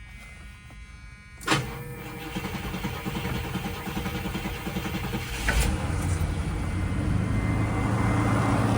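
1975 Cadillac Eldorado's 500 cubic-inch V8 cold-started after a few pumps of the gas pedal: it catches almost at once about a second and a half in, then runs at idle, growing louder, with a further step up in level about five and a half seconds in.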